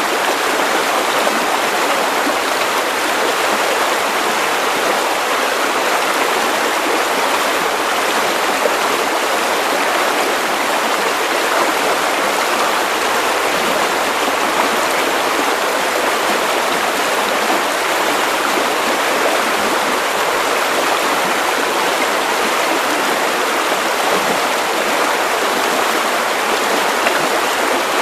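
Steady white noise: an even, unchanging hiss, weaker in the low end, played as a sleep sound for babies.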